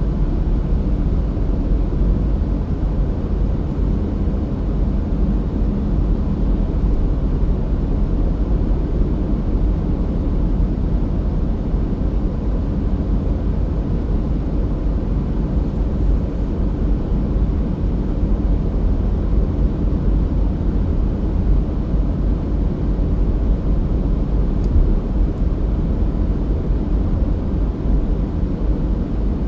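Car driving at a steady pace: a continuous low rumble of engine and tyre noise with no changes.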